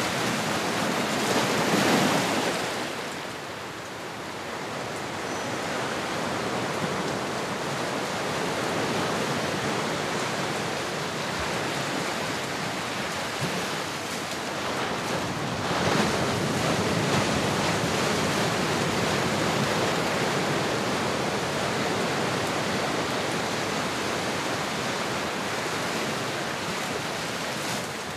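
Ocean surf: a steady rush of breaking waves, swelling loudest about two seconds in and again around sixteen seconds.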